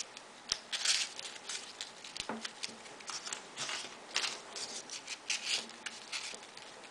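Folded paper origami pieces rustling and scraping as they are slid onto the points of a 3D modular origami model, in short scattered rustles with a few light clicks.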